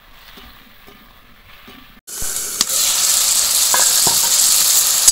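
Vegetables (potato and Malabar spinach) sizzling in hot oil in a kadai, starting abruptly about two seconds in, with a few sharp clicks of the spatula as they are stirred.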